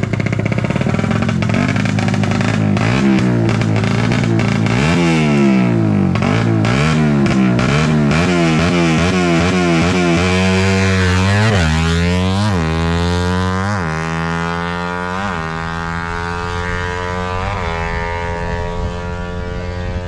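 Motorcycle engine being revved in short throttle blips, about one a second, each rising and falling in pitch, as a drag-race bike is test-revved. In the last few seconds a steadier engine note climbs slowly in pitch.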